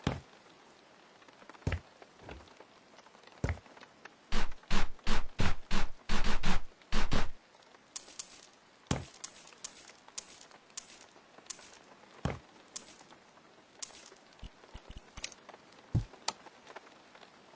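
Hand work with tools or objects: scattered knocks, a quick run of about a dozen loud strikes in the middle, then lighter, high-pitched clinks.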